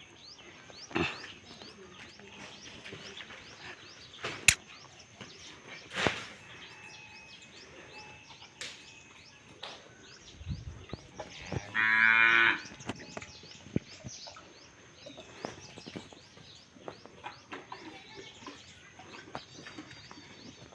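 A cow moos once, a short loud call about twelve seconds in, over a background of small birds chirping and a few scattered clicks.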